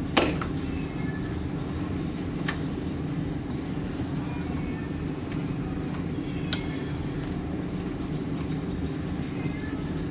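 Motorcycle engine running at a steady pace, with no revving, and three short sharp clicks over it.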